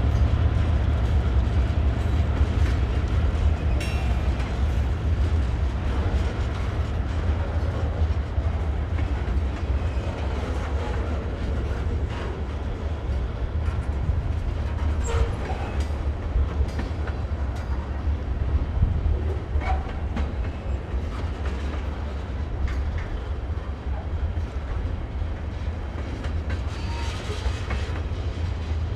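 Freight train rolling past: a steady low rumble of cars and wheels with clattering over the rails and a few faint squeaks, growing slowly quieter.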